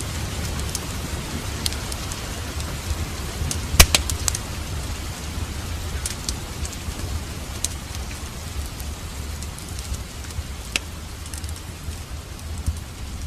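Wood fire crackling, with scattered sharp pops, the loudest about four seconds in, over a steady sound of rain.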